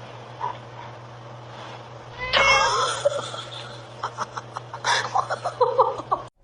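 Domestic cat yowling in protest at harness training: one loud, wavering yowl about two seconds in, then a string of shorter cries near the end, over a steady low hum.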